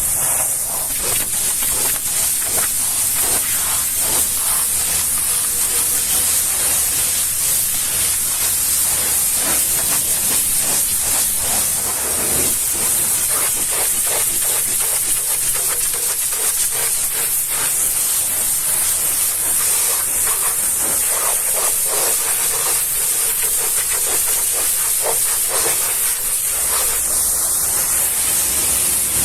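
High-pressure washer jet spraying steadily, a constant loud hiss of water.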